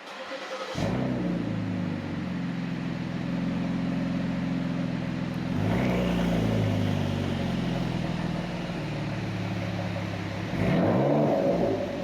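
Muffler-deleted 2011 Ford Taurus SHO's twin-turbo 3.5 L EcoBoost V6 starting up about a second in and idling through the straight-piped exhaust. It is revved twice: once about six seconds in, and a quick blip near the end.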